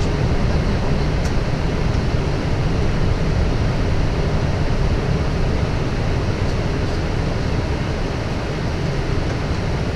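Steady rushing noise inside a Boeing 777 flight deck on approach: airflow and air-conditioning noise with a deep low-end rumble, even throughout.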